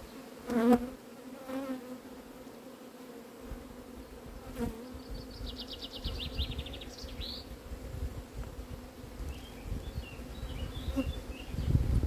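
Honeybees humming steadily around an open hive, with one bee buzzing loudly close by about half a second in. Low rumbling handling noise picks up in the second half, with a short run of fast high ticks in the middle.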